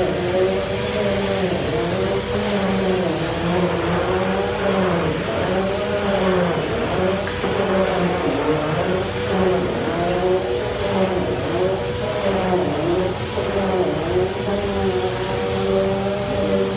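Bissell Easy Vac vacuum cleaner running continuously. Its motor whine dips in pitch and recovers again and again.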